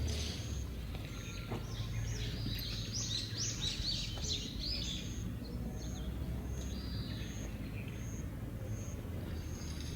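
Birds chirping: a quick burst of chirps in the middle, then a short high call repeating a little more than once a second, over a steady low background rumble.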